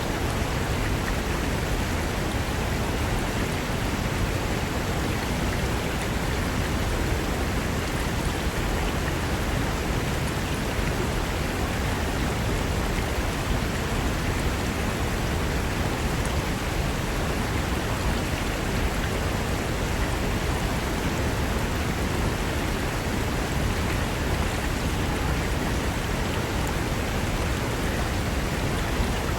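Fast mountain river rushing over rocks: a steady, dense roar of water that does not change.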